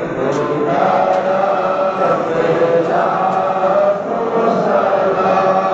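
Many voices chanting together in unison, with held notes that overlap and carry on without a break.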